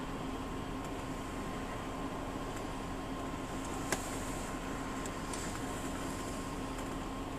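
Steady hum of a vehicle heard from inside the cab, with a faint click about four seconds in.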